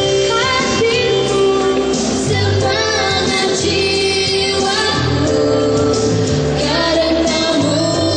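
A song with voices singing a melody that slides between held notes, over a band accompaniment with a steady bass line.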